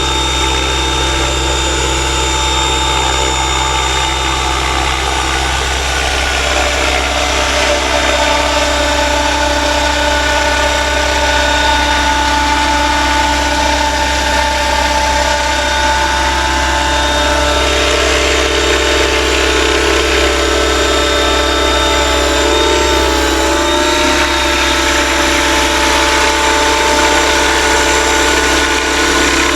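Electric 600-size RC helicopter (Align T-Rex 550e mechanics in a Roban Airwolf scale fuselage) hovering at a 65% head speed setting: a steady whine of motor and main rotor, with the pitch wavering slightly about three quarters of the way through.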